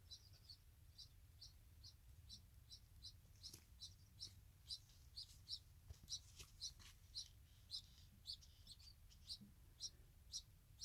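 Baby birds cheeping faintly: a steady run of short, high chirps, about two to three a second.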